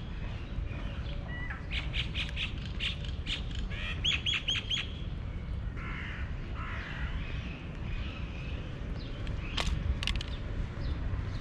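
Birds calling outdoors: quick runs of short chirps, a harsher call in the middle and a few sharp notes near the end, over a steady low rumble.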